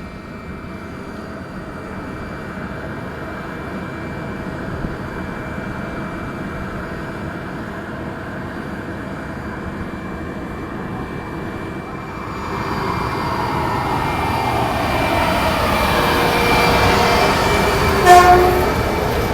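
DS3 AC electric locomotive hauling a passenger train as it approaches, its running noise and steady whine growing louder, then swelling further with changing pitch in the second half. Near the end the locomotive sounds one short, loud horn blast.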